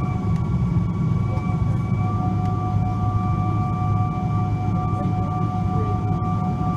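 Cabin noise inside a Boeing 777-200ER with its GE90 engines running: a steady whine of a few high tones over a low rumble, holding level without spooling up or down.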